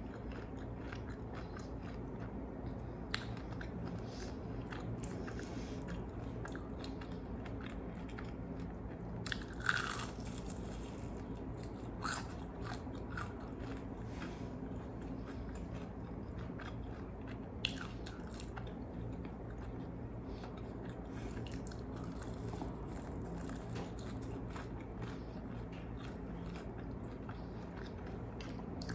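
Close-up chewing and biting of crispy fried chicken wings, with a few sharper crunches, the loudest about ten seconds in.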